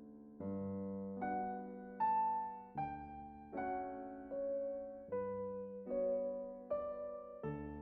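Slow, gentle piano music: single notes and chords struck about once a second, each left to ring and fade.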